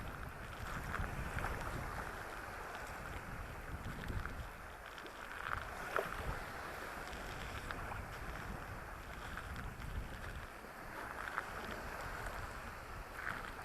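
Sea of Azov surf washing onto a sandy beach, a continuous hiss of breaking water that swells and eases every few seconds, with wind buffeting the microphone underneath.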